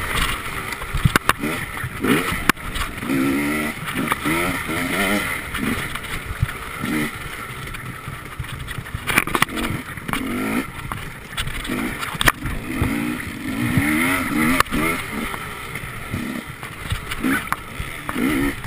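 On-board sound of an enduro motorcycle engine at race pace, revving up and dropping back over and over as the rider accelerates and backs off through the forest track. Sharp knocks come through every few seconds over the engine.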